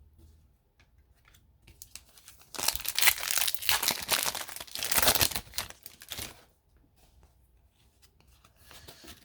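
A trading card pack's wrapper being torn open and crinkled, about four seconds of loud tearing and crinkling that starts a few seconds in, with light card handling around it.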